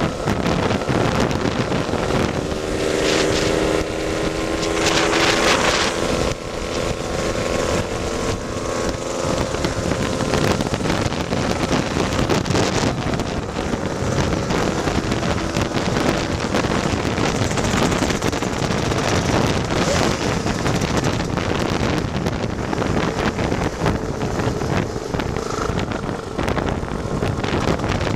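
Wind buffeting the microphone over a tuned Lambretta scooter's two-stroke single-cylinder engine running at speed; the engine note stands out more clearly from about three to ten seconds in.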